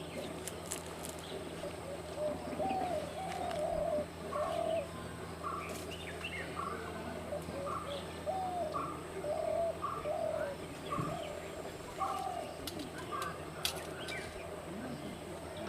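A bird giving a run of short, arched calls, about two a second, with a few sharp clicks among them.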